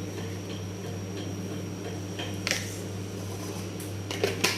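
Light clicks and taps of a spoon adding tea leaves, one about two and a half seconds in and a quick cluster near the end, over a steady low electrical hum.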